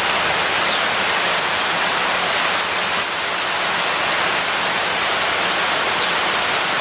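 Steady heavy monsoon rain. Two short high falling whistles, likely from a bird, come through it about half a second in and again near the end.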